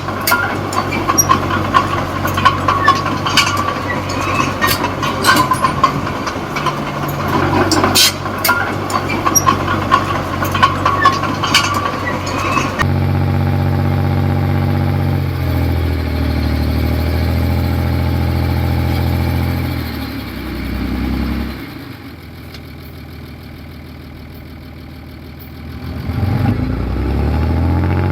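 Komatsu D20P small bulldozer's diesel engine working, with the steel tracks clanking repeatedly. Partway through, the sound changes abruptly to a steady engine note. This then drops to a low idle for several seconds and revs back up near the end.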